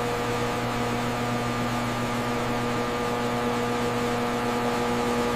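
A steady, unchanging machine hum over a constant hiss.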